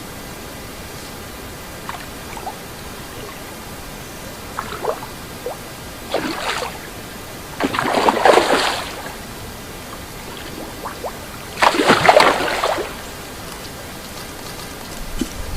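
Water splashing in three bursts of about a second each, over a steady hiss, with a few small ticks in between.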